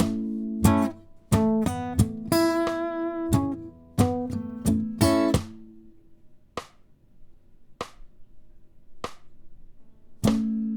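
Acoustic guitar strumming chords in a reggae-style rhythm, with accented strokes and palm-muted down strums. The strumming stops a little past halfway, leaving three faint, evenly spaced clicks, and starts again near the end.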